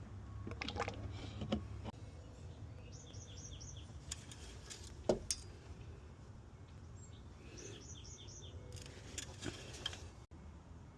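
A bird calling twice, each time a quick run of four chirps, over faint outdoor background noise. There are a few light clicks and knocks, and a low rumble cuts off about two seconds in.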